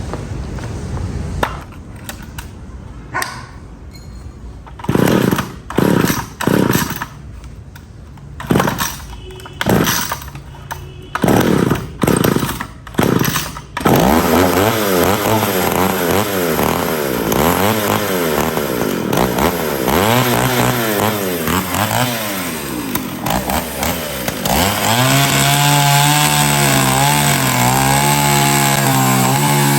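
Restored 1967 Stihl chainsaw's two-stroke engine being started: several short bursts as it fires and dies, then it catches about halfway through and runs with the revs rising and falling. Near the end it is held at steady high revs.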